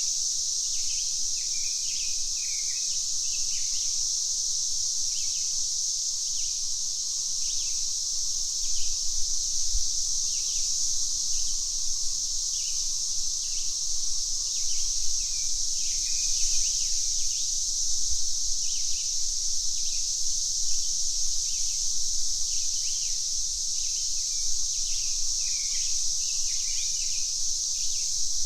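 Steady, dense drone of cicadas, with many short bird chirps calling over it throughout.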